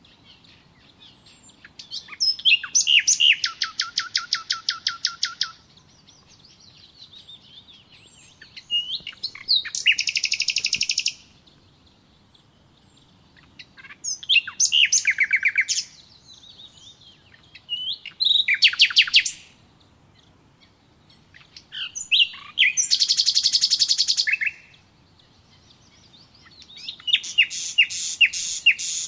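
A songbird sings six short trilled phrases, one every few seconds. Each phrase opens with a few sweeping notes and runs into a fast string of repeated notes. Fainter chirps from other birds fill the gaps between phrases.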